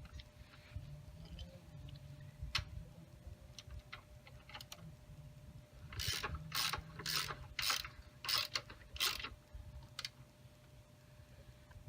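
Hand ratchet wrench clicking as a bolt is run in after hand-starting: a few single clicks, then about six quick strokes about half a second apart.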